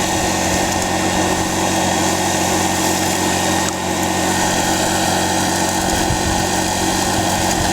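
Small gasoline engine of a dry washer running steadily at constant speed, a continuous engine drone with a high whine.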